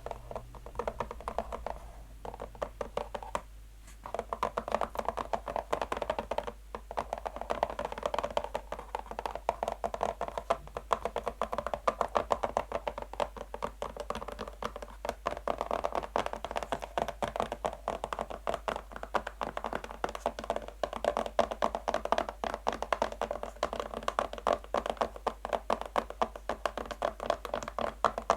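Natural fingernails tapping fast but lightly on a box, a dense, rapid run of small clicks. The tapping goes softer for a couple of seconds about two seconds in, then picks up again.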